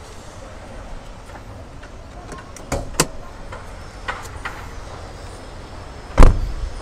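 Toyota Esquire's bonnet being released and opened: a few sharp clicks about three seconds in, more light clicks a second later, then one heavy thump near the end.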